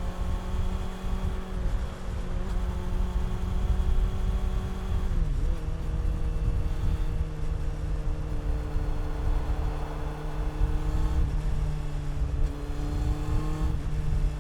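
Honda CB400 Super Four inline-four engine and exhaust running at steady revs while riding. The pitch dips briefly about five seconds in, then holds steady again.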